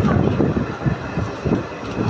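Passenger train coach running on the rails, heard from inside: a steady low rumble of wheels and bogies with irregular knocks and rattles.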